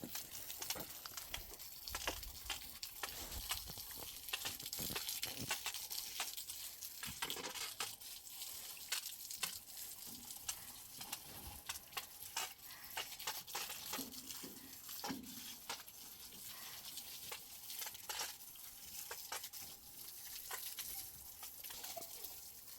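Barley being stirred and heated in a dry pan: an irregular crackle of many small ticks and scrapes over a steady hiss.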